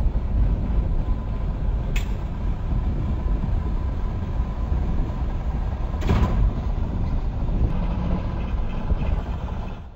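Steady, heavy low rumbling noise with a faint steady tone, broken by two brief knocks about two and six seconds in.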